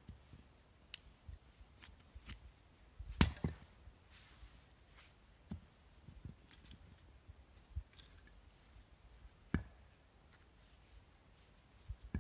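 Scattered light knocks and clicks at irregular intervals, with a sharper knock about three seconds in and another near ten seconds.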